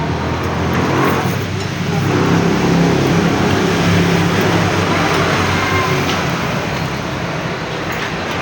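Road traffic: a motor vehicle's engine running close by with a low hum, growing louder about two seconds in and easing off again.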